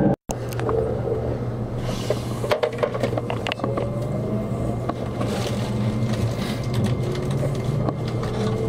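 Inside an Azusa limited express electric train: a steady low hum with scattered clicks and knocks, broken by a brief dropout of sound just after the start. Near the end a rising whine sets in as the train pulls away from the station.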